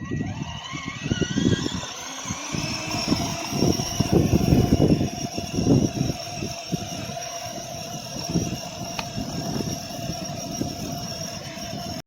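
A 12-volt kids' ride-on tractor's electric drive motor whines up in pitch over the first couple of seconds as it gets going, then runs at a steady whine, with uneven rumbling from the plastic wheels over the ground.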